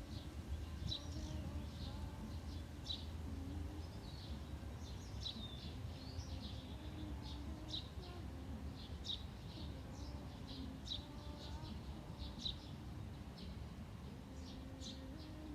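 Birds chirping: short high chirps repeated every second or so, over a faint steady low rumble of background noise.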